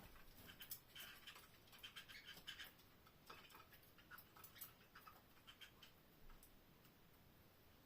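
Faint, scattered clicks and scratches from canaries in their cage, busiest in the first three seconds and sparser after.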